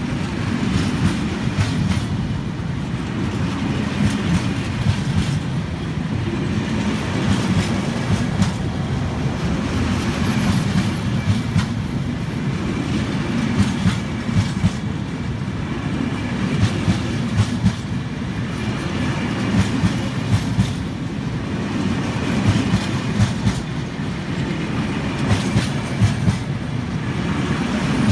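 A train rolling past on the tracks: a steady rumble with wheels clicking over the rail joints in recurring groups.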